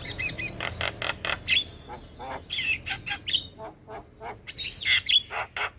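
Javan myna (jalak kebo) singing: a rapid run of short clicking, chattering notes mixed with wavering whistled slides, with brief lulls between phrases.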